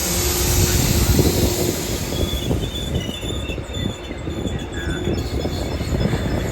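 MBTA commuter train rolling slowly through a station: a low rumble and uneven clatter of wheels on the rails, with thin, high wheel squeals from about two seconds in.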